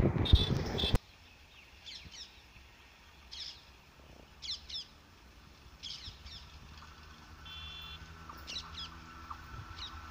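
Loud passing-train noise cuts off sharply about a second in. Then small birds chirp in short calls every second or so, and in the second half a faint steady hum rises as an electric locomotive approaches in the distance.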